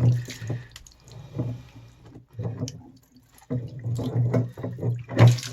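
Water splashing and dripping in irregular spurts from a drained electric water heater tank, easing off for about a second midway before picking up again.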